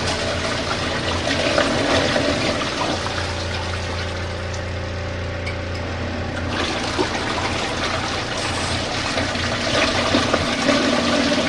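Water rushing and splashing in a small portable washing machine, over the steady low hum of its motor. The rushing thins for a few seconds in the middle, then picks up again.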